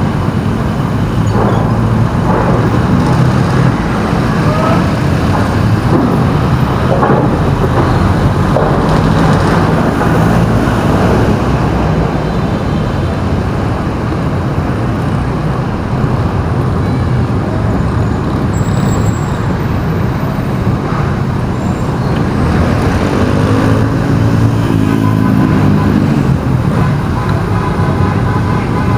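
Steady road-traffic noise: vehicle engines running and tyres on the street, with an engine note rising and falling in pitch about three-quarters of the way through.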